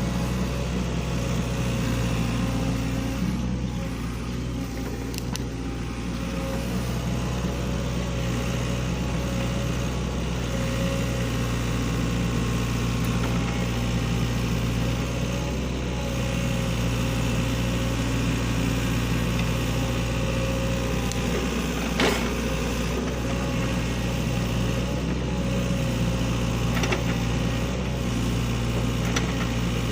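SANY excavator's diesel engine running steadily, with one sharp knock about three quarters of the way through.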